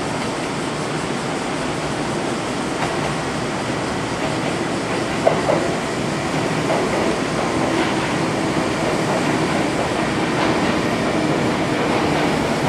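Kintetsu electric commuter train pulling in alongside the platform: a steady rumble of wheels and running gear, with one sharp wheel clack about five seconds in.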